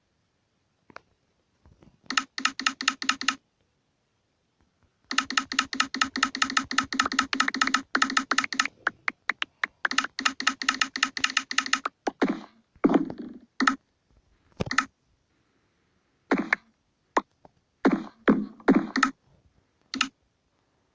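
Bursts of rapid, even clicking, about seven clicks a second, over a low steady tone. Later they give way to scattered single knocks and short thuds.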